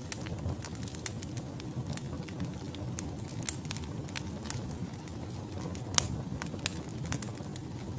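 Wood logs burning in a fireplace: a steady low rush of flame with frequent irregular crackles and pops. One sharp pop about six seconds in stands out as the loudest.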